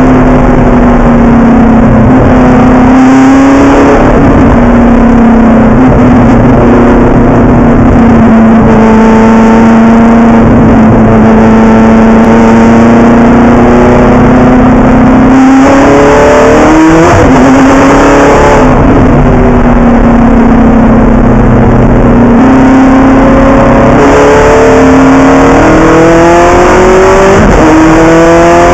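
Ferrari GT race car's V8 engine heard from inside the cockpit while lapping a track. It holds steady revs for stretches and, several times, revs up in rising sweeps that break off and drop with each gear change. Very loud throughout.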